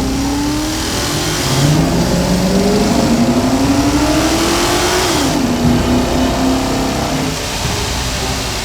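Car engine revving as a cartoon sound effect: its pitch climbs steadily for a few seconds, then drops and settles about five seconds in.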